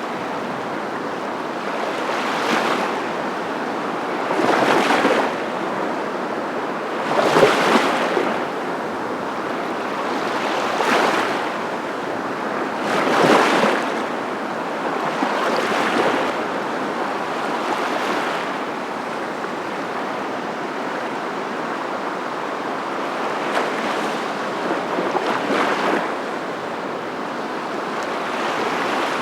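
Surf: a steady rush of water with waves swelling and washing in every few seconds.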